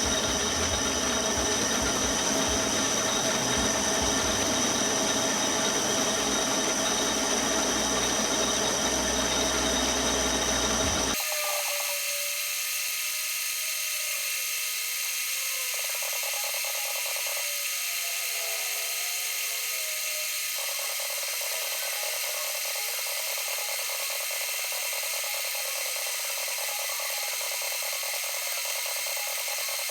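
Metal lathe running with a steady mechanical whir and thin steady whining tones. About eleven seconds in, its low rumble cuts off abruptly and the sound turns thinner and quieter.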